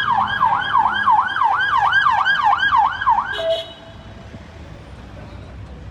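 Emergency-vehicle siren on a fast yelp, its pitch sweeping up and down about three times a second, cutting off about three and a half seconds in and followed by a brief low tone.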